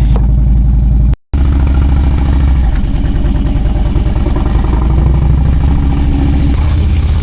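Harley-Davidson V-twin motorcycle engine running steadily, with a split-second break in the sound about a second in.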